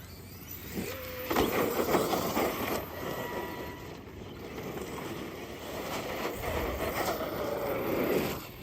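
Arrma Outcast 8S RC truck's electric brushless motor whining under throttle, with tyre and drivetrain noise. The whine rises about a second in, wavers up and down with the throttle, then stops suddenly near the end.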